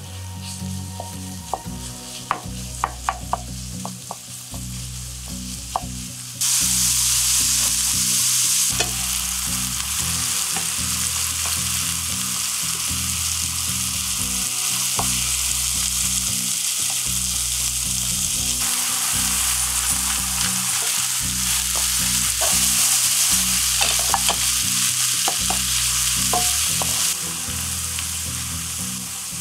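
Minced meat sizzling in a nonstick frying pan as it is stirred with a spatula, with a few sharp taps of the spatula on the pan in the first seconds. About six seconds in, the sizzle suddenly gets much louder and stays loud, with sliced shiitake mushrooms frying alongside the meat.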